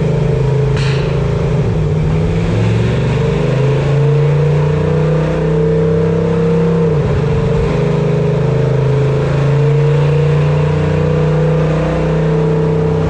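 Supercharged Toyota truck engine running under load on a chassis dyno, revs climbing steadily, with a sudden drop about seven seconds in as it shifts gear, then climbing again.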